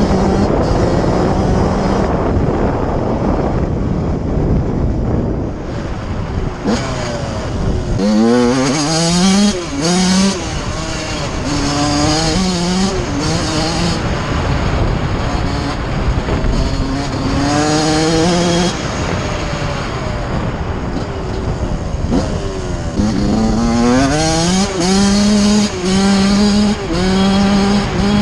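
Single-cylinder two-stroke engine of a 2009 Suzuki RM85 motocross bike revving hard through the gears on a ride: its pitch climbs in repeated sweeps and falls back at each shift or throttle-off, over a steady rushing noise.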